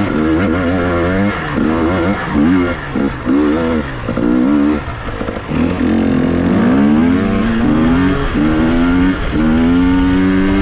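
KTM two-stroke enduro motorcycle engine revving up and down sharply in quick throttle blips, then from about halfway accelerating through the gears in four rising pulls, each dropping back at the shift.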